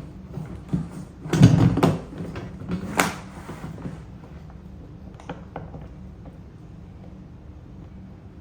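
Cart parts and bolts being handled during assembly: a rattling scrape about a second and a half in, a sharp click about three seconds in, then a few light clicks.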